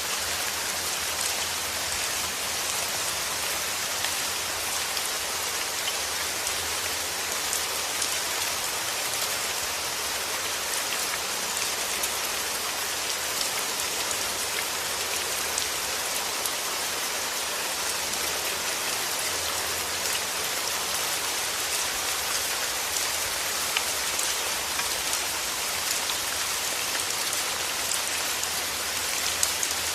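Steady heavy rain falling on a surface, a dense hiss of many fine drop ticks with a faint low rumble underneath.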